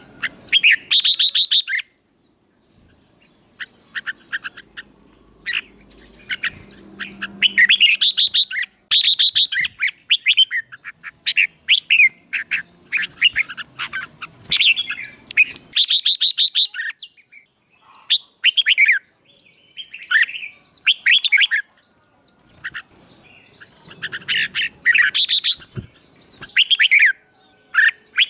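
Caged songbirds singing loud, rapid phrases of chirps and trills, one phrase after another with short pauses, as a wild-caught bird is stirred up to sing in competition style.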